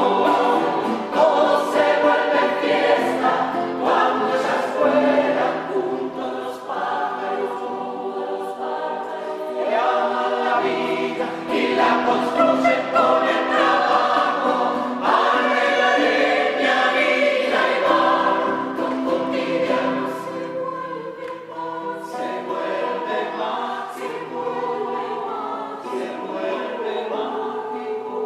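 A choir singing a song in several-part harmony, getting a little softer in the last third.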